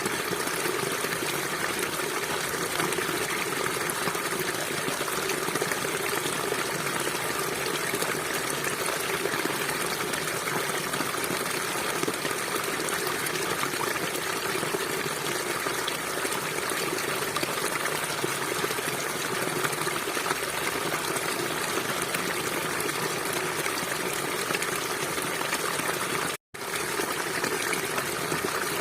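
River water flowing in a steady, even rush, broken by a momentary dropout to silence near the end.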